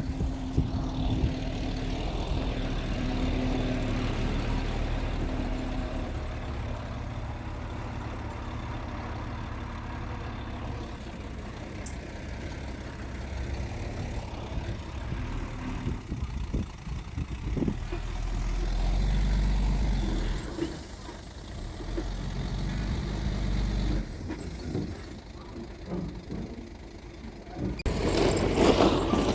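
Mitsubishi G2 bulldozer's diesel engine running as it works, its low rumble rising and falling with the load and getting louder and rougher near the end.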